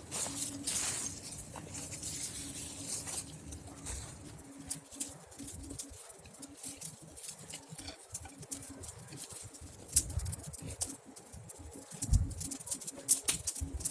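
Campfire crackling, with irregular sharp snaps and pops, the loudest near the end.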